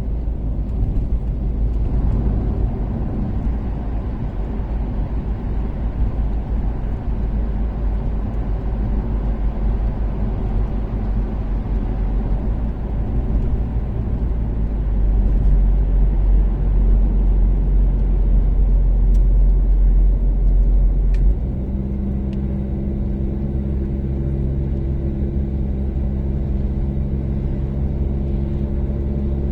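Toyota Caldina's 3S-GTE turbocharged four-cylinder and tyres on an expressway at a steady cruise, a continuous low rumble. It grows louder for several seconds, then drops suddenly about three-quarters of the way through, leaving a steady engine drone with a few even tones.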